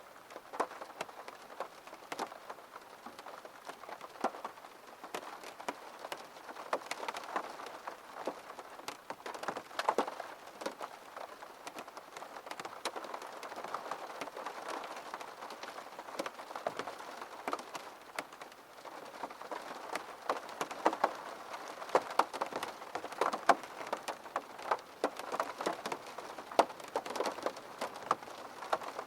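Rain falling and drops tapping irregularly on a window pane, a steady patter with many sharp individual drop hits.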